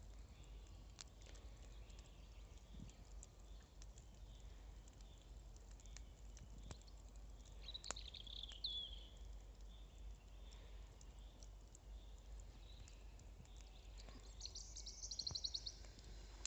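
Faint wild birdsong over near silence: a short chirping call that falls in pitch about halfway through, and a fast trill near the end, with scattered faint clicks between them.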